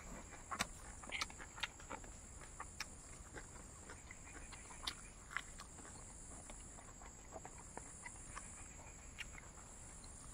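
A person chewing dried fried pork close to the microphone: irregular mouth clicks and smacks, more frequent in the first half.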